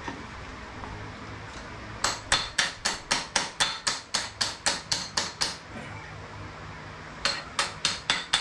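Furniture upholstery hammer tapping rapidly, about four light, sharp blows a second: a run of about a dozen starting two seconds in, then, after a pause, a second run near the end.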